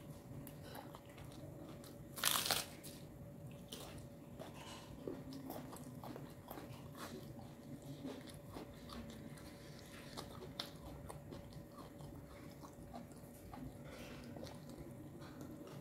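A person biting into crunchy food and chewing it: one loud crunching bite about two seconds in, then a long run of quieter, irregular chewing clicks.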